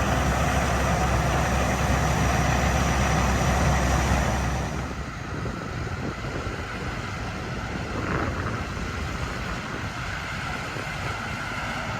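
Heavy diesel farm machinery running steadily with a deep rumble. About four and a half seconds in, the rumble drops away suddenly and a quieter, even machine noise carries on.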